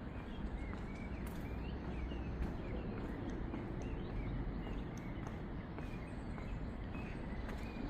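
Small birds chirping in short, repeated calls over a steady low rumble of outdoor background noise.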